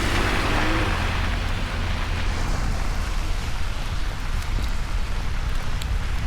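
Steady rain falling, an even hiss with a low rumble underneath. A faint hum fades out about a second in.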